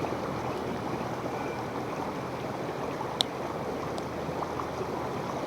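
Stream water rushing steadily, with a short sharp click about three seconds in and a fainter one soon after.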